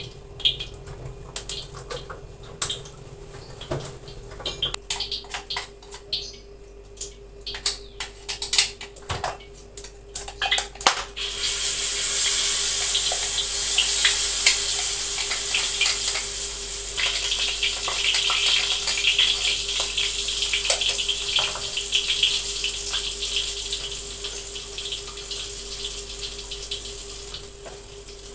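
Hot oil in a wok crackling with scattered pops, then a sudden steady sizzle about 11 seconds in as pounded chilli, shallot and belacan paste is tipped into the oil and starts to fry. The sizzle eases a little after a few seconds.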